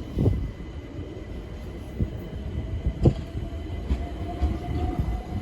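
Train running through the station: a low rumble with a few sharp knocks of wheels over rail joints, about a second apart, and a faint steady tone.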